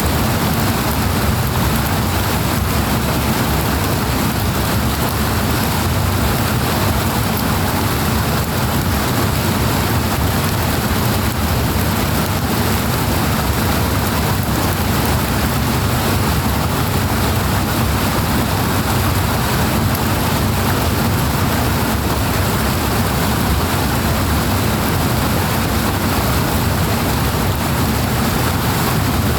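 Powerful rushing water, a loud, even noise that holds steady without breaks.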